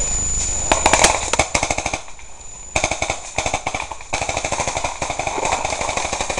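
Airsoft guns firing full-auto: rapid strings of shots at about a dozen or more a second, in three long bursts with short breaks between them.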